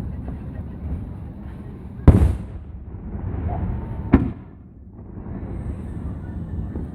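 Aerial fireworks shells bursting: two loud booms about two seconds apart, over a steady low rumble of other bursts.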